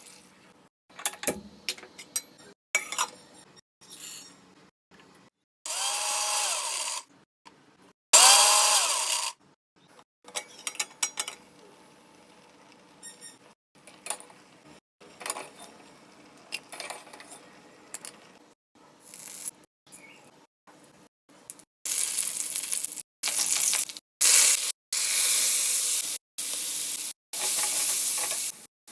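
Cooking sounds in short cut-together clips: scattered clicks and knocks of kitchen utensils, then hot oil sizzling in a pan in loud bursts as bitter gourd fries, with a long run of sizzling in the last several seconds.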